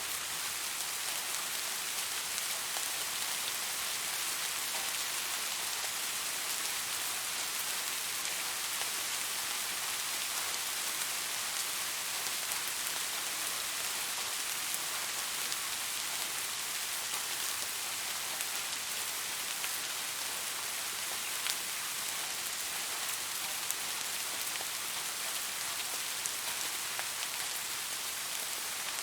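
Steady rain falling, an even hiss with a few louder single drops standing out now and then.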